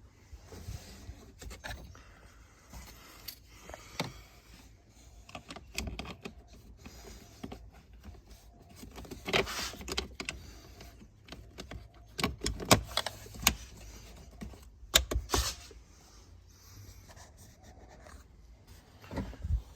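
Irregular hand-handling noises while working on a car's cabin air filter: sharp clicks and knocks with short scraping and rustling between them, in a few louder clusters about halfway through.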